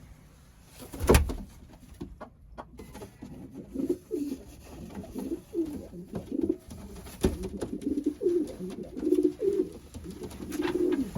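Racing pigeon cock bird cooing over and over, low gliding coos, courting a hen just put in with him. A sharp knock comes about a second in and another about seven seconds in.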